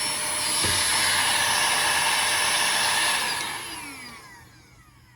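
EYYA handheld cordless mini vacuum cleaner running, then switched off about three seconds in, its motor winding down with falling pitch.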